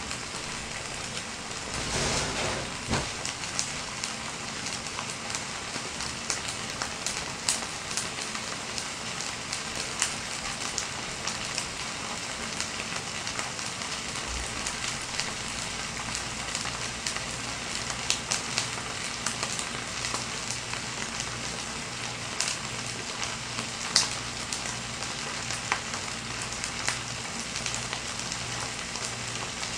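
Jjukkumi-samgyeopsal bulgogi (webfoot octopus and pork belly in sauce) sizzling in a shallow aluminium pot: a steady frying hiss with scattered pops and crackles, one sharper pop about three-quarters of the way through.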